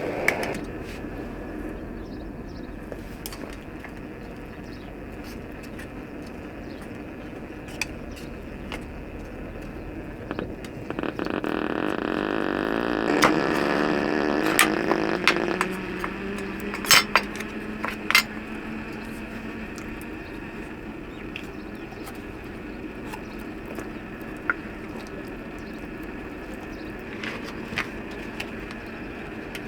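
A vehicle engine running steadily. About halfway through it gets louder and its pitch falls, as a vehicle slowing or passing close by does. A few sharp clinks sound in the middle.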